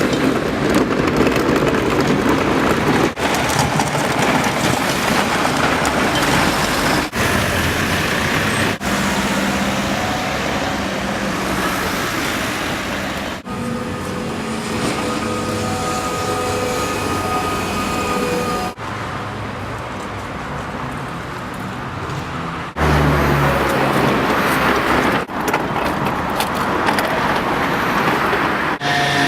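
City street traffic noise, cars and other vehicles passing, in several short segments cut abruptly together, with a thin held tone for a few seconds about halfway through.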